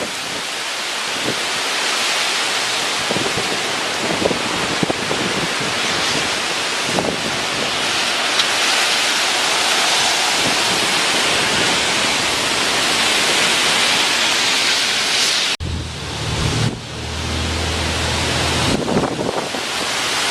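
Tropical-storm wind gusts with driving rain: a dense, steady hiss. About three-quarters of the way through it breaks off abruptly and gives way for a few seconds to a low rumble, then the hiss returns.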